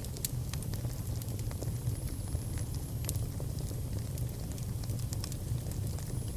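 Fire burning in a fireplace: a steady low roar of the flames with scattered crackles and pops, and a faint high whistle about two seconds in.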